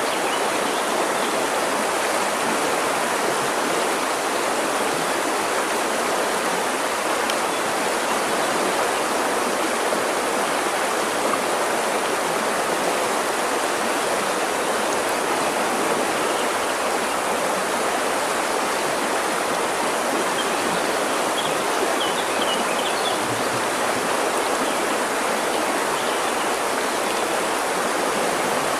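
River water flowing steadily with an even, unbroken rush. A few faint bird chirps come in about two-thirds of the way through.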